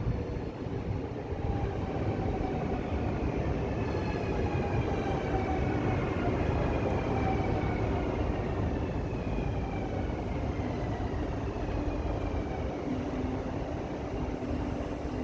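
Train running past with a steady rumble, and a whine that slowly falls in pitch over several seconds.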